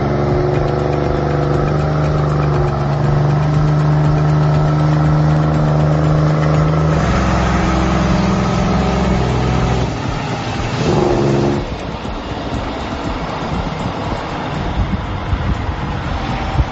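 Heavy diesel engine running steadily, stepping up in pitch about seven seconds in and then dropping away to a rougher, noisier rumble for the rest.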